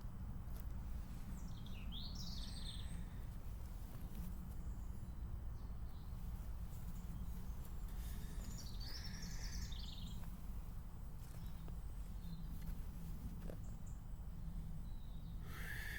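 Steady low outdoor background rumble with birds calling three times: short high chirping phrases about two seconds in, near the middle, and at the end.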